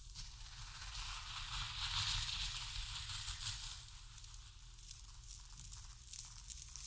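Ajwain seeds rustling and shifting in a bowl, a dense crackly patter of tiny grains that swells about two seconds in, then settles softer.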